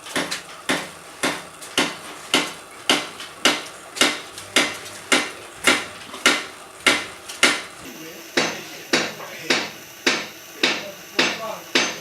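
Hammer blows in a steady rhythm, about two a second, each a sharp strike with a short ring after it.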